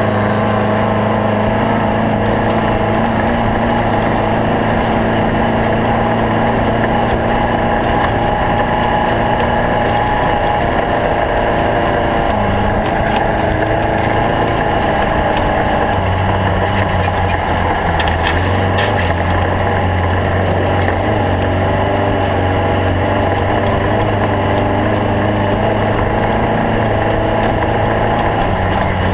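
Air-cooled VW flat-four engine of a stock-class Baja Bug off-road race car running steadily under way, its note stepping to a different pitch a couple of times.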